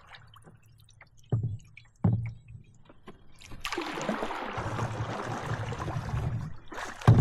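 Canoe on the lake: two hollow knocks against the hull, then from about three and a half seconds in a steady rushing noise as the boat moves along.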